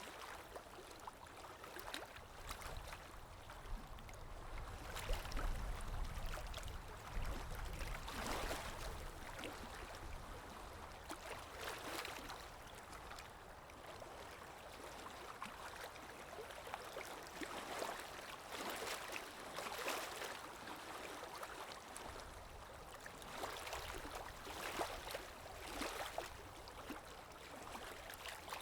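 Underwater ambience: muffled water movement and gurgling that swells every few seconds. A low rumble sits underneath, strongest early on.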